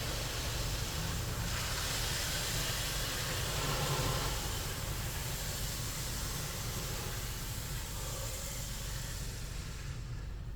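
Rinse water from a Ryko SoftGloss XS automatic car wash spraying over the car, heard from inside the cabin as a steady hiss over a low hum. The hiss dies away near the end.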